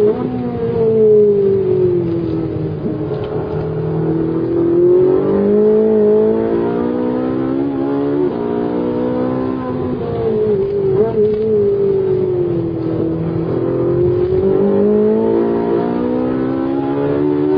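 Ferrari 458 Italia's 4.5-litre V8 heard from inside the cabin while driving hard, the revs falling and then climbing again twice, with a sudden jump in pitch at a gear change about eight seconds in.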